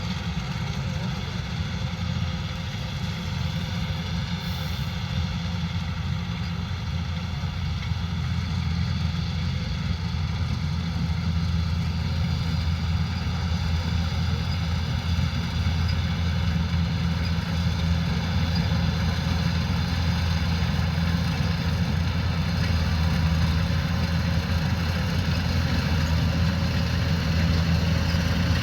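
Kubota combine harvester engine running steadily with a low hum, growing slightly louder over the stretch.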